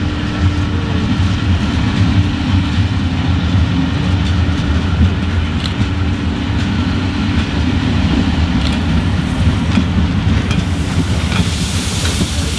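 Train running on the rails with a steady low rumble and scattered wheel clicks, and a hiss swelling near the end.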